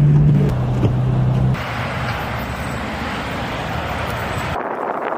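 Road vehicle and traffic noise in a snowstorm. A steady low engine drone stops abruptly about a second and a half in, giving way to an even rushing noise of traffic, which changes abruptly again near the end.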